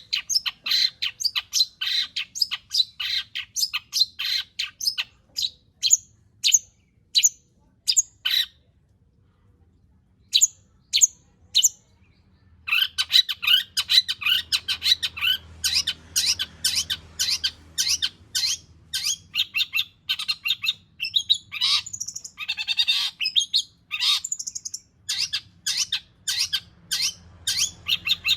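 Long-tailed shrike (cendet) in full song: a fast string of short, sharp, high notes, with mimicked phrases worked in. The song breaks off about eight seconds in, then resumes as a denser, chattering run with harsh scratchy notes.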